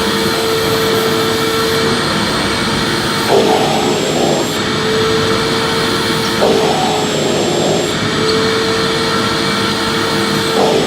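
Electric vacuum cleaner running steadily with a whining motor tone, being pushed over the floor. The tone breaks and dips briefly about every three seconds, three times.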